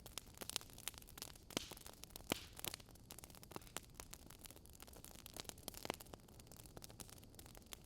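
Wood fire crackling in a fireplace: a steady quiet hiss broken by irregular sharp pops and snaps, the loudest a little past two seconds in.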